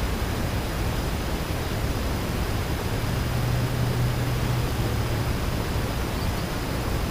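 Steady outdoor background noise, an even hiss, with a low hum that swells from about three seconds in and fades again a couple of seconds later.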